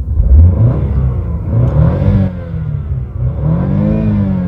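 A BMW car's engine revved twice while parked, the pitch rising and falling each time, with the second rev higher, towards about 6,000 rpm, near the end.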